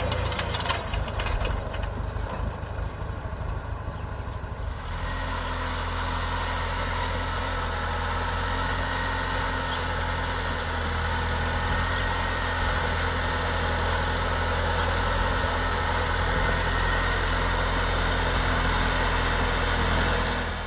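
An engine running steadily, with a few clicks over it at first; about five seconds in its sound shifts and settles into an even drone.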